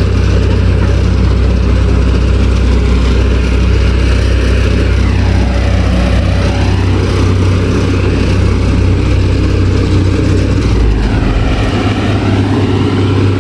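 Heavy road-construction machinery engines running, a deep steady drone; the engine note shifts about eleven seconds in.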